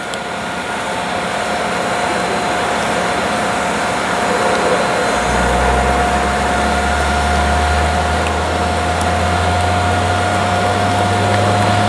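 Airbus A400M Atlas flying its display, its four TP400 turboprop engines and propellers making a steady broad rush. About five seconds in, a low propeller drone sets in and grows slightly louder.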